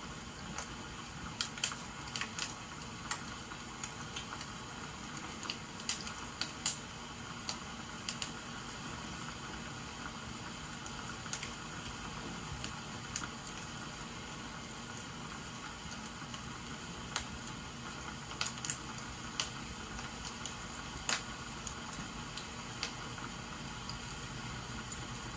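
Wood fire crackling, with scattered sharp pops, over a steady hiss of rain.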